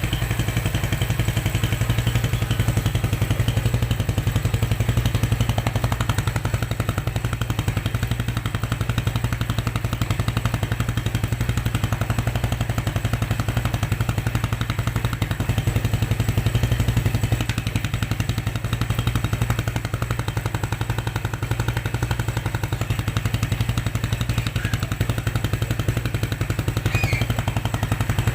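Yamaha Jupiter Z's 110 cc carburetted four-stroke single idling steadily through its stock exhaust, a fast even putter with no revving. A hand held over the exhaust outlet shapes its note.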